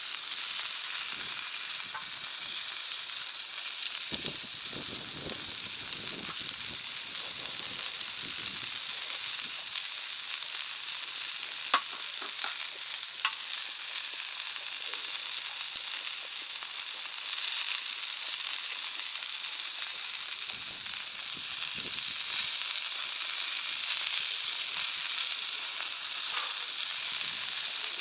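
Meat sizzling on a cast-iron Genghis Khan grill pan heated over a wood fire: a steady frying hiss, with a few sharp pops about twelve seconds in.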